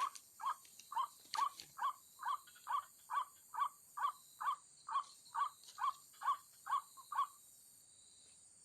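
White-breasted waterhen (ruak-ruak) calling: a regular series of short notes, a little over two a second, that stops about seven seconds in. A steady high insect drone runs underneath.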